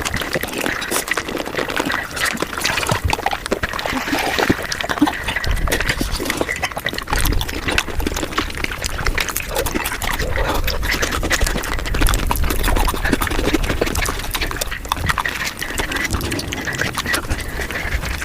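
Mukbang eating sounds sped up about five times: a rapid, dense run of crunching and wet mouth noises from chewing a tortilla chip, with a low rumble through the middle.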